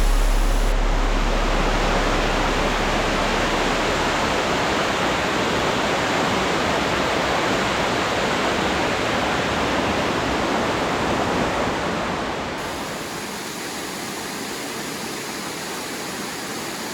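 Helton Creek Falls running full after days of rain: a steady, heavy rush of falling water. About twelve seconds in it drops a little quieter and duller.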